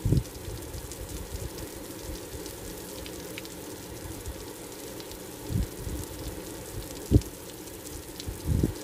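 Raw chicken pieces frying in hot oil in a pan, a steady sizzle, with a few soft knocks of the utensil as the chicken is stirred, about five and a half, seven and eight and a half seconds in.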